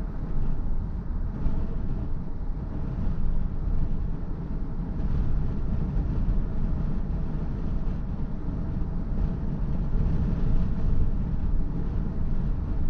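Steady low rumble of road and tyre noise from a BMW i4 M50 being driven. The car is electric, so there is no engine note, only the low hum of the tyres on the road.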